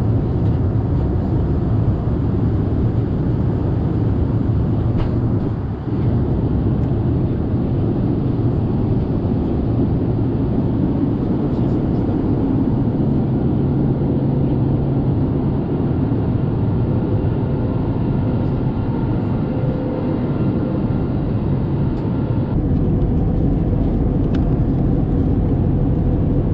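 Steady in-flight cabin noise of an Airbus A321neo: a deep, even rumble of engines and airflow heard inside the passenger cabin.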